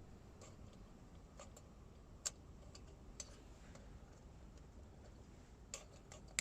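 Wood fire burning faintly in a can stove: a low steady rumble with sparse sharp pops, a few roughly a second apart, then several close together near the end.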